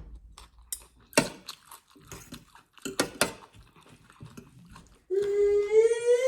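Someone chewing and crunching food, with scattered sharp crunches. About five seconds in, a dog starts a long, loud howl that rises slightly in pitch.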